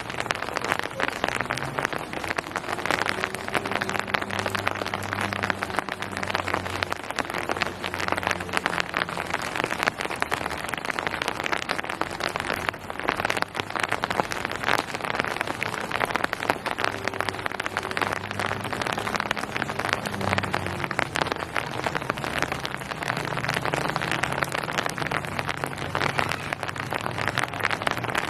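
Steady rain falling, a dense even patter of many drops on surfaces, with a faint low hum underneath.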